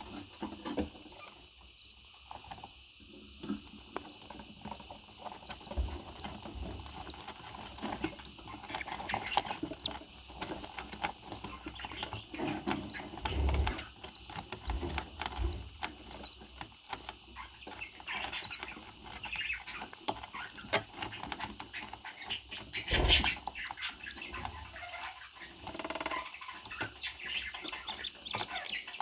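A bird repeating a short, high chirp about one and a half times a second, over scattered clicks, scratching and a few louder knocks.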